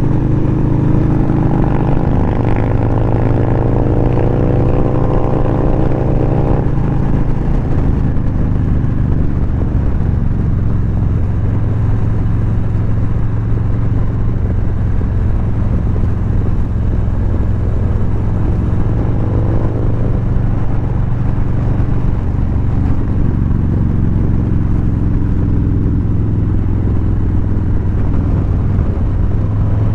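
Motorcycle engine running while riding, with the pitch of the engine shifting during the first several seconds and then holding steadier, under steady road and wind noise.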